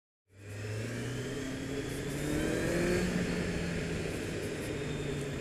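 Kawasaki Z750's inline-four engine accelerating, its pitch rising over a couple of seconds and then holding steady. It starts suddenly just after the beginning.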